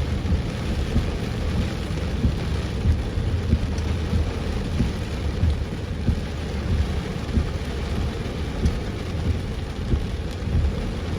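Heavy rain pouring down on a moving car: a dense, steady patter over a deep continuous rumble.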